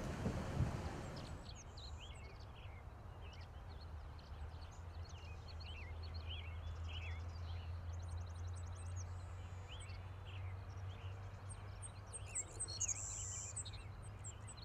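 Several small birds calling and singing, short chirps and sweeps with a rapid trill near the middle and a louder call later on, over a low steady hum.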